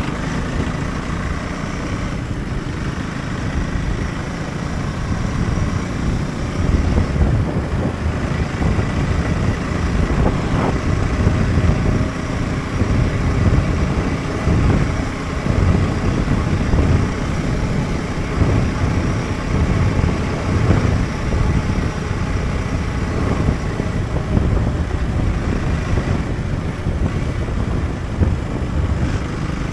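Husqvarna Svartpilen 401's single-cylinder engine running on the road, with a steady low rumble that swells and eases.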